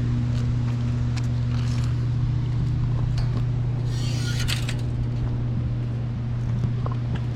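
Steady low machine hum, engine-like and unchanging, with faint scuffs and a brief rustle about four seconds in as someone climbs down over rocks.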